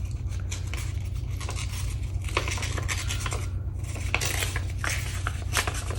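Pieces of paper gel print rustling and tapping as they are handled and laid in place, with scattered small clicks, over a steady low hum.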